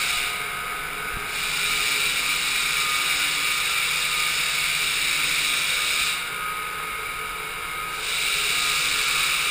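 Floor sander with an on-board dust vacuum running steadily with a loud, hissing motor noise. The hiss drops briefly twice, about half a second in and again about six seconds in.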